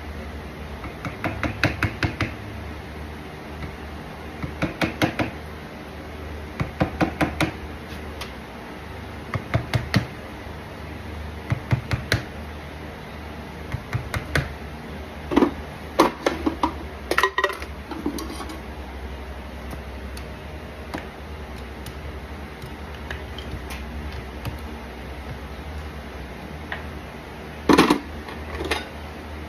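Farrier's hammer tapping on horseshoe nails and a steel shoe: short runs of quick light metallic taps every couple of seconds, with a few heavier knocks around halfway and near the end.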